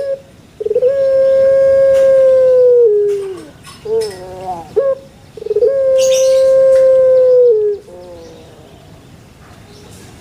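Dove cooing in full song ('manggung'), close and loud. It gives two phrases, near the start and about halfway. Each opens with a short stutter and holds one long steady note for about two seconds, dropping at the end, with short falling coos after it.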